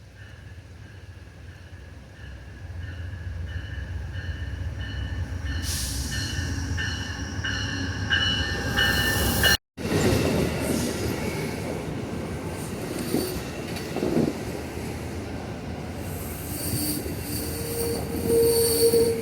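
Amtrak passenger train arriving and slowing: a diesel locomotive rumble that grows louder as it draws in, with wheels and brakes squealing in several steady high tones. The sound breaks off abruptly about halfway through and resumes.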